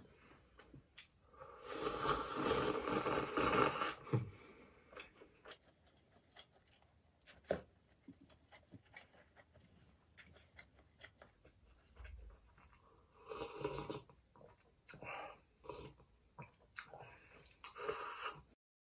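Close-miked eating sounds of salmon sushi and cup noodles: chewing, with small wet mouth clicks. A loud, dense rush of noise runs from about two to four seconds in, and shorter bursts come near the middle and near the end.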